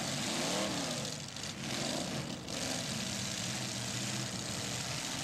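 Several demolition derby cars' engines running hard and revving up and down over a dense, steady roar.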